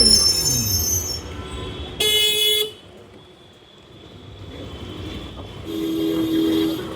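Vehicle horns honking in road traffic: a loud short honk about two seconds in, then a quieter two-tone honk near the end, over general traffic noise.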